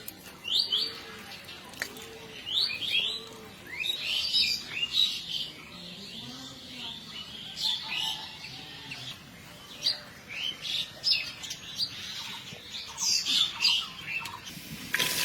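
Birds chirping: many short, quick calls, scattered irregularly, with a few lower arched notes in the first few seconds.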